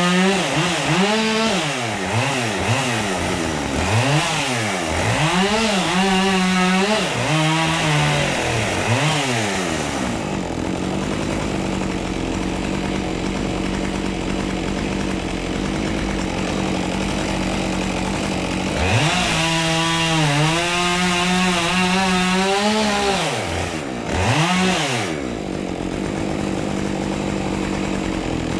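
A two-stroke chainsaw running at high revs, the engine pitch dropping and climbing back about every second and a half through the first ten seconds. It then holds a steady note, with a few more dips and rises later on.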